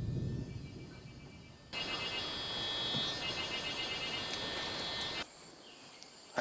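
Outdoor ambience with insects, such as crickets, buzzing in steady high tones. A low rumble of distant thunder fades out in the first second. From about two seconds in, a louder, even hiss joins the insects and cuts off suddenly shortly before the end.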